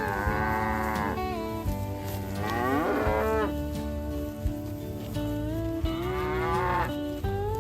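Cattle mooing: three drawn-out moos, one at the start, one about two and a half seconds in, and one about six seconds in.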